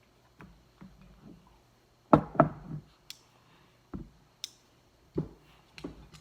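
Irregular knocks and clicks from a phone holder and its packaging being handled, with a louder cluster of knocks about two seconds in.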